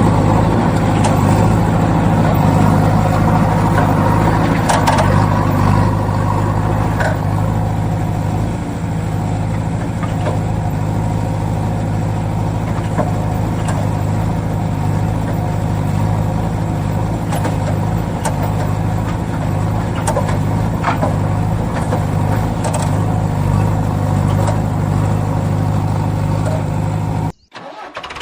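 A steady low engine drone, held at one pitch, with a few faint clicks over it. It cuts off abruptly about a second before the end.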